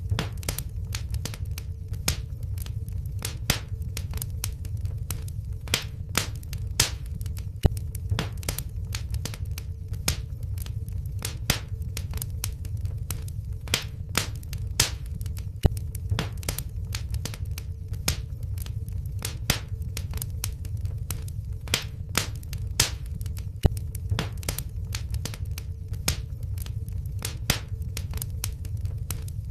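Wood fire crackling in a fireplace: sharp irregular pops and snaps, a few each second, over a steady low rumble of flames.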